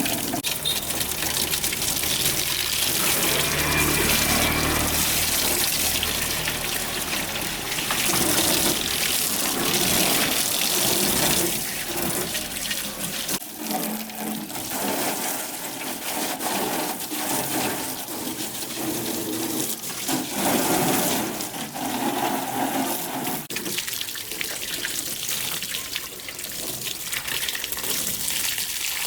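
Water running steadily, with some light knocks and clatter of handling.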